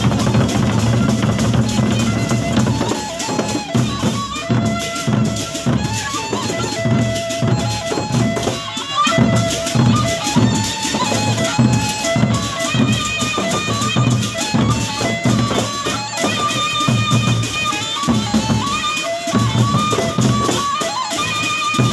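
Gendang beleq, the Sasak traditional ensemble of large double-headed drums, playing a fast, steady beat under a held melody line that steps from note to note.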